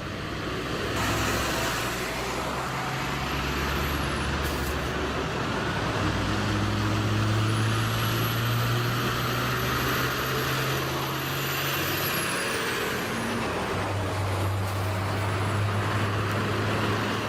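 Heavy truck engine running under load, its pitch stepping up and down a few times. A thin high whine rises, holds and falls away in the middle stretch.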